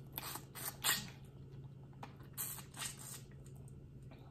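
Boiled crawfish shell being cracked and peeled by hand: a few short crackles and wet squishes, mostly in the first three seconds.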